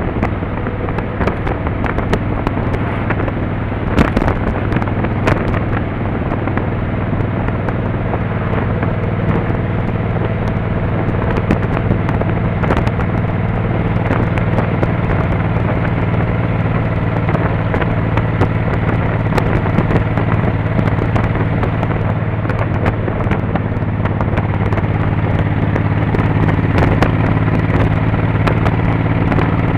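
Motorcycle engine running steadily while riding, with scattered sharp clicks and crackles over it.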